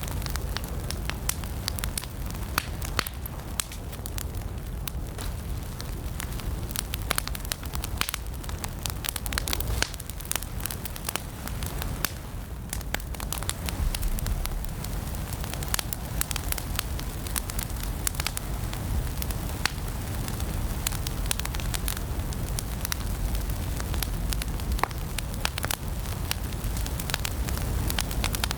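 Fire in a fireplace crackling, with many sharp, irregular pops over a steady low rumble of the flames.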